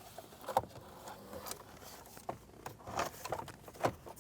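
Plastic instrument cluster being pulled forward out of a 2010 Chrysler Sebring dashboard: scattered clicks and knocks with light scraping of plastic trim against plastic.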